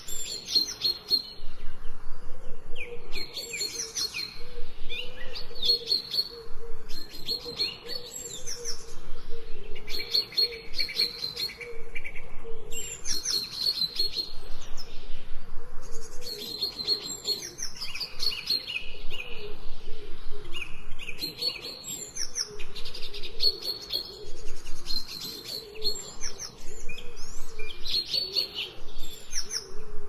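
Songbirds chirping in clusters of rapid high chirps and trills, recurring about every couple of seconds, over a fainter, lower wavering sound. The whole is mixed in 8D audio, panned to seem to move around the listener.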